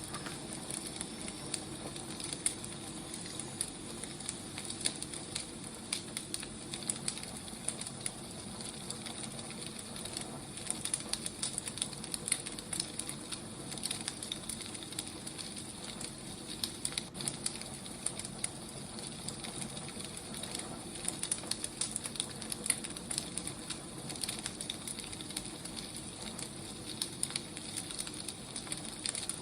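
Firewood burning: a steady hiss with frequent irregular crackles and pops.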